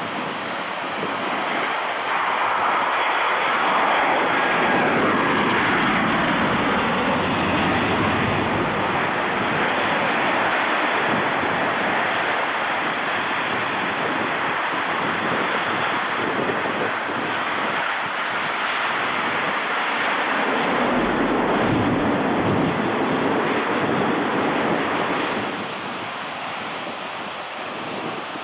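Jet airliner's engines passing close by: the noise swells about two seconds in, with a falling whine as it goes past, holds loud, then fades near the end, over wind on the microphone.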